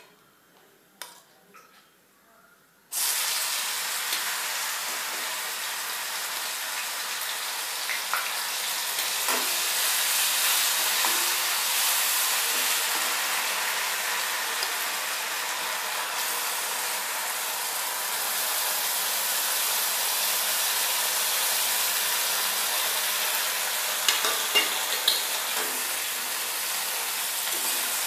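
Onion paste and ginger-garlic paste frying in hot oil in a metal kadai. After a few light spatula clicks, a loud steady sizzle starts suddenly about three seconds in, with the metal spatula knocking against the pan a few times near the end.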